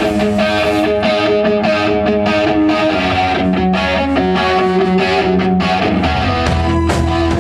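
Live rock band playing an instrumental passage: distorted electric guitar over bass and a steady drum beat, with the bass swelling about six seconds in.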